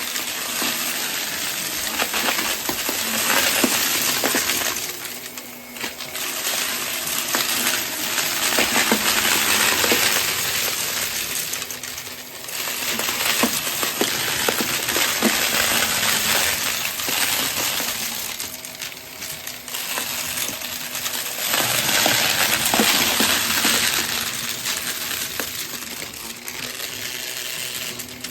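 Vacuum cleaner running and sucking up a mix of heavy, hard debris, the bits rattling and clattering through the cleaner head. The noise swells and falls back with each pass, several times.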